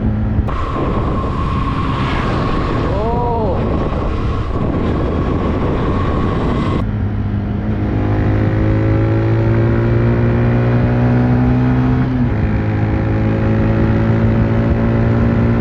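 TVS Raider 125 motorcycle's single-cylinder engine and exhaust running while the bike is ridden. In the second half the engine note climbs steadily as it accelerates, dips for a gear change about 12 seconds in, then climbs again.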